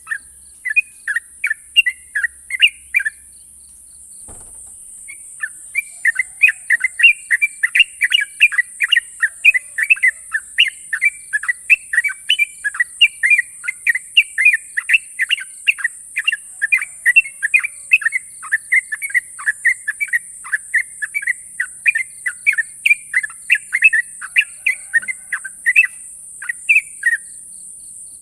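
Yellow-vented bulbul (trucukan) singing a long, rapid run of short, sharp chirping notes, several a second, breaking off briefly about three seconds in before resuming. A steady high hiss runs underneath.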